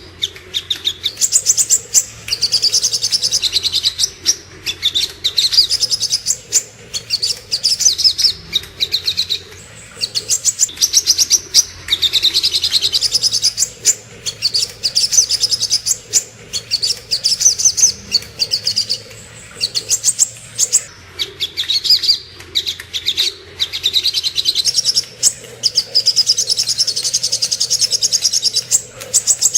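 Crimson sunbird (sogok ontong) singing: rapid, high-pitched trilling phrases, one after another, with short breaks between them.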